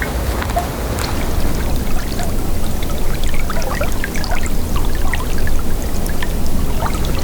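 Water trickling and dripping, many small liquid plinks over a steady low rumble.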